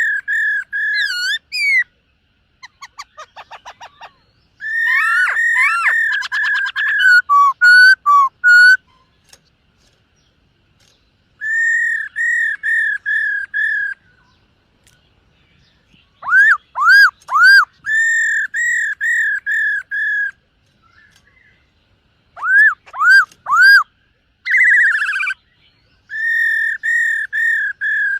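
Black-throated laughingthrush singing loud, clear whistled phrases: runs of repeated notes and upward-slurred whistles in bursts of a few seconds with short pauses between them, and one brief rapid buzzy phrase about two-thirds of the way through.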